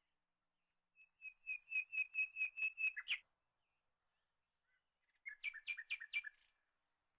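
A bird singing two short phrases of rapid repeated high chirps, about five notes a second. The first phrase lasts about two seconds; the second starts about five seconds in and lasts just over a second.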